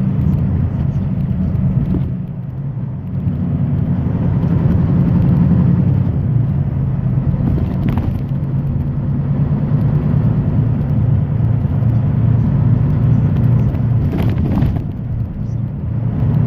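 Semi-truck engine and road noise while driving: a steady low drone that eases off briefly twice, with a couple of short knocks.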